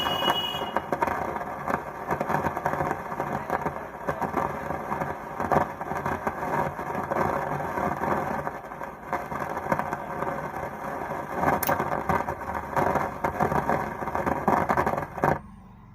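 Faulty Stranger PBT701 700-watt amplifier sending a loud, irregular crackling noise through its speaker, cutting off suddenly near the end. The repairer blames the noise on four failing transistors on the bass board, since bypassing the tapping point has not cured it.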